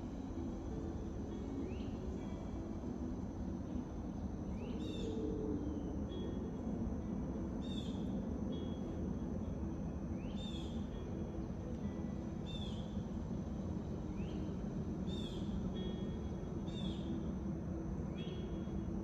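Forest ambience: birds calling over and over, short rising chirps every two or three seconds, above a steady low rush of background noise.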